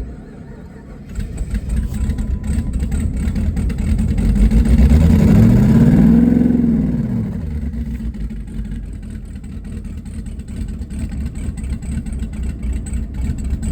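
A twin-turbo LS V8 engine is started: a click, then it catches about a second in. It is revved once, rising and falling back, and then runs at a lumpy idle.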